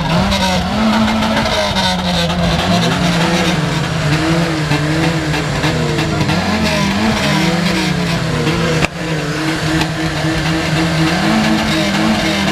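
Car engine revved up and down over and over, its pitch swinging every second or so over a steadier running note.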